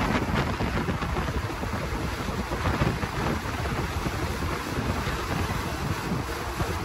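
Steady rushing and rumbling of a moving passenger train heard from on board, with wind buffeting the microphone.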